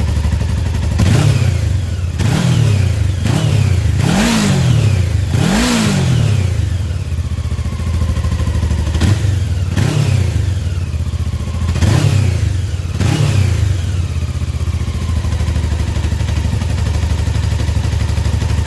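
Honda CB500 motorcycle engine idling and being revved in short throttle blips, about nine in all, the two highest about four and six seconds in. After that it settles to a steady idle.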